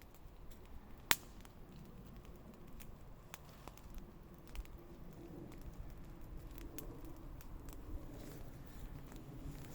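Wood fire crackling: irregular small pops and ticks, with one loud snap about a second in.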